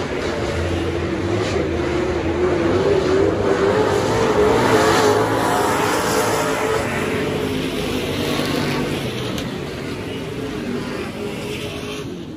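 Super stock dirt track race car engine running hard at speed, its pitch wavering, getting louder toward the middle and then slowly fading.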